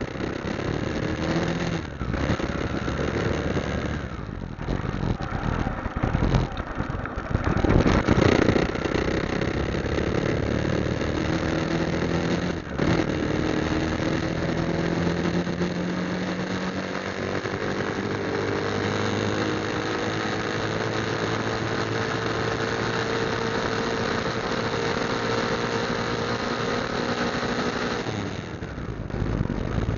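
Motorcycle engine running under way, with a steady rush of wind noise; the engine's pitch climbs slowly through the second half, then drops near the end.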